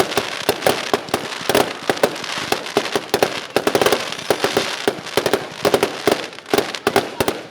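Fireworks going off in rapid succession, a dense run of sharp bangs and crackles many times a second that eases off at the end.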